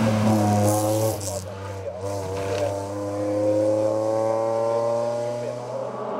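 Race car engine under full throttle, briefly interrupted about two seconds in, then pulling with its pitch climbing steadily for several seconds.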